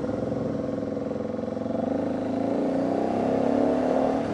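Motorcycle engine running under way, its pitch climbing gently over the second half as the bike speeds up.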